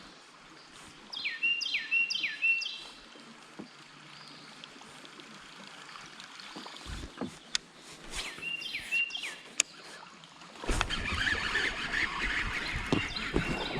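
A bird calling outdoors in short, repeated whistled notes that slide downward, two runs of three or four notes several seconds apart. About eleven seconds in, a louder, rough rushing noise with a low rumble sets in and runs on.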